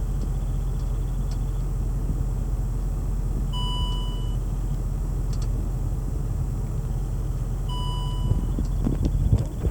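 The 2006 Range Rover Sport Supercharged's supercharged 4.2-litre V8 idling steadily after a cold start. Two short electronic beeps sound about four seconds apart, and a few knocks come near the end.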